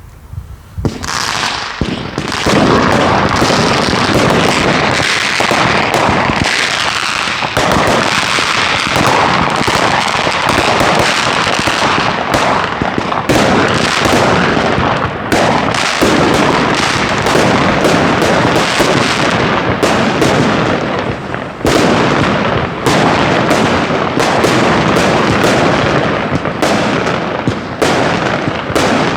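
Fireworks going off in rapid succession: a dense run of bangs and crackling that starts about a second in and keeps on without a pause.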